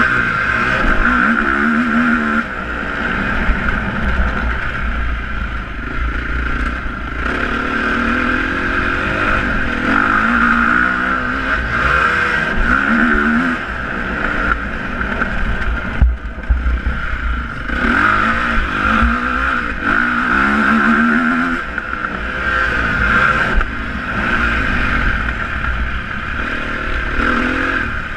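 Motocross motorcycle engines revving, their pitch climbing and falling again and again, over a steady low rumble.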